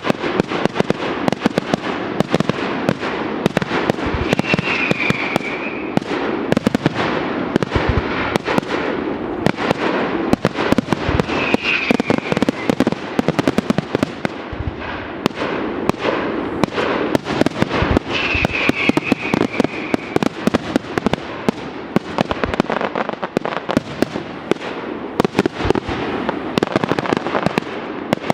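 Aerial fireworks going off in a dense, continuous stream of crackling reports and pops, with a brief high tone heard four times.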